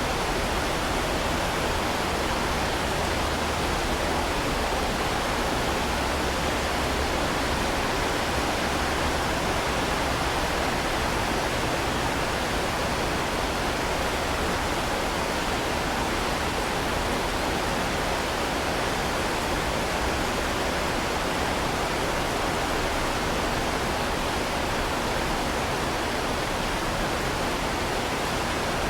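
Heavy rain falling, a steady, even hiss without single drops standing out.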